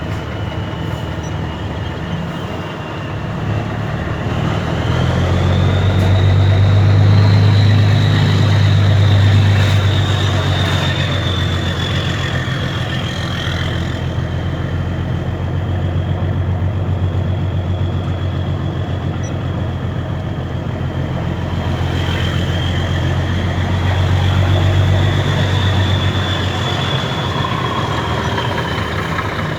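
Mercedes-Benz Actros 2636 truck's V6 diesel running through a straight-through exhaust with no muffler. The engine runs steadily, then its revs rise and it gets louder for several seconds before settling back, and this happens twice.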